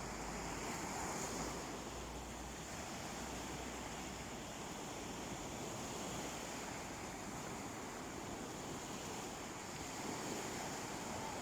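Sea waves washing steadily onto a beach, with a low rumble of wind on the microphone in the first few seconds.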